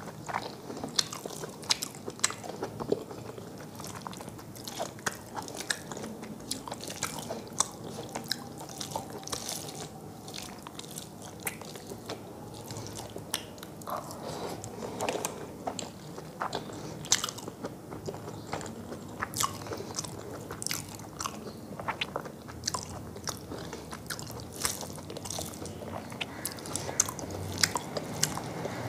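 Close-up chewing and crunching of mouthfuls of rice and curry eaten by hand, with many irregular wet mouth clicks and crackles.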